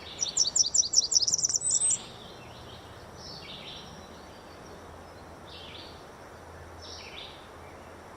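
Blackburnian warbler singing: a quick series of high, thin notes that climb to a very high ending, lasting about two seconds. Fainter, scattered high bird notes follow over a steady hiss.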